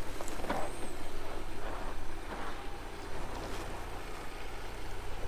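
Jeep engine running steadily at low revs as the vehicle crawls through a tight off-road section.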